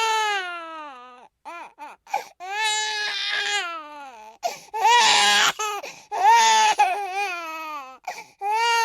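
Infant crying: long wails that fall in pitch, broken by short catching breaths, with one harsher, raspier cry about halfway through and a fresh wail starting near the end.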